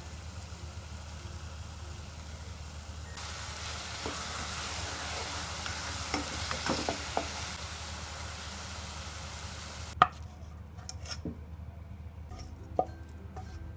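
Food sizzling as it fries in a pan, a steady hiss that gets louder about three seconds in, with a few utensil knocks while it is stirred. About ten seconds in it cuts off suddenly to a quieter stretch with a sharp knock and a few light clicks.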